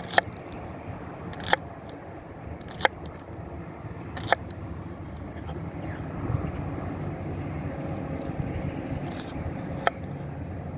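Sharp knocks, four about a second and a half apart and then one more near the end, over a steady low rumble.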